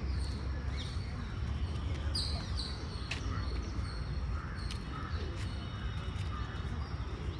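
Birds calling in a park, with two short high calls about two seconds in and scattered chirps, over a steady low rumble.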